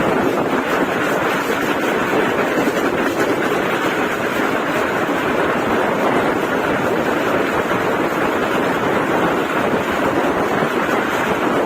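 Steady rushing noise of a moving passenger train, wind and running noise blended into an even roar with no breaks.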